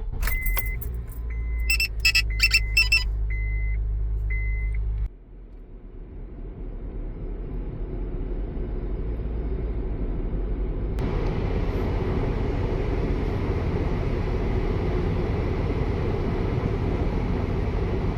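Car engine idling with a warning chime beeping several times and a few clicks. The sound then cuts off suddenly and gives way to steady road and engine noise heard from inside a moving car, which builds up as it gathers speed.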